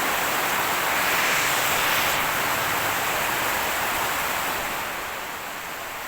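Heavy rain falling, a dense steady hiss that drops a little near the end.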